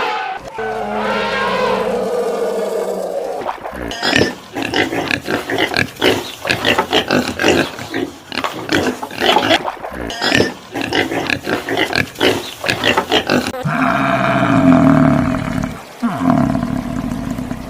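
Animal calls: a pitched call, then a long run of rapid short pulsed calls lasting about ten seconds, then another long pitched call near the end.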